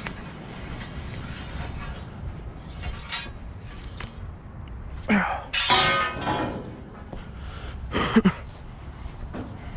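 Heavy metal clanging: two loud strikes about three seconds apart, the first ringing on for about a second, over a low steady rumble.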